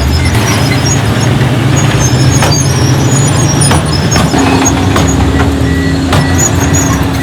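Crawler bulldozer's diesel engine running steadily under work, with high squeaks and sharp metallic clanks from its steel tracks. A second steady engine note joins about four seconds in.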